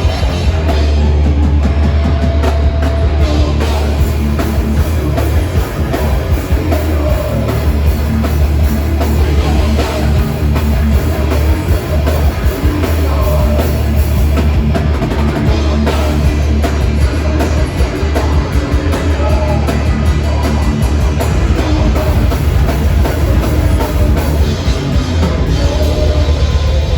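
Heavy metal band playing live and loud: drum kit and amplified instruments, with a very heavy, booming low end.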